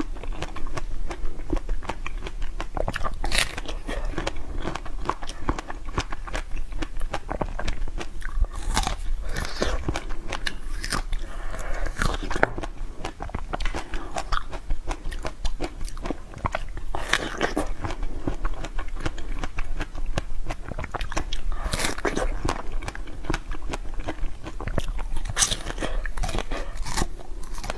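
Close-miked biting and chewing of crunchy food, with a dense run of small crackling crunches and a few sharper bites.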